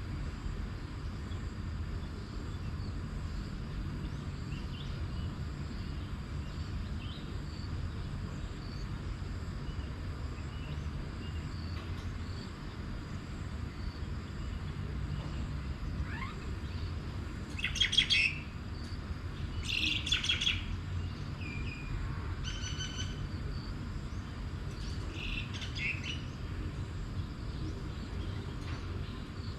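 Birds chirping in short bouts, the loudest two a little past halfway, over a steady low rumble.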